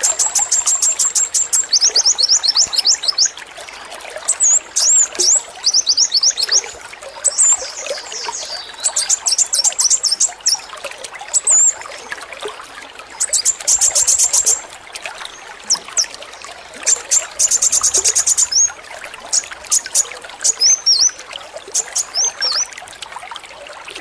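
Male kolibri wulung sunbird singing, bursts of rapid-fire high chirps and trills repeated throughout (the rattling song that bird keepers call 'AK-47'), over a steady trickle of running water.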